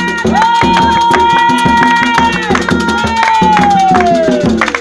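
Candomblé ritual drumming on hand drums, a fast steady rhythm, with a long high held note over it that slides down in pitch near the end.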